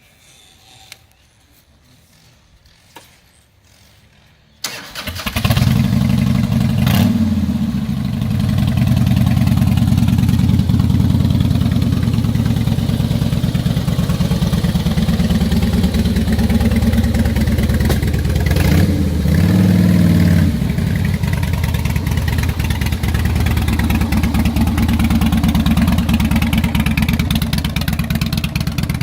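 A 2005 Harley-Davidson Fat Boy's V-twin engine is started on the starter about four and a half seconds in and catches at once. It then idles with a steady pulsing beat, and is blipped with the throttle twice, about seven seconds in and again about nineteen seconds in. Before the start there are only a couple of faint clicks.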